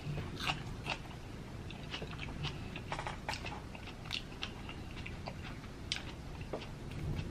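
A person chewing and smacking on food close to the microphone: scattered wet clicks and smacks over a low steady rumble.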